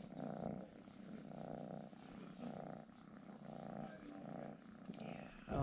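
Domestic cat purring close up. The purr swells and fades with each breath, about once a second, the sign of a content, relaxed cat.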